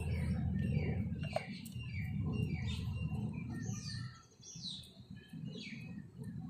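Small birds chirping repeatedly in short, quick falling notes. A low rumbling noise runs underneath and drops away briefly about four seconds in.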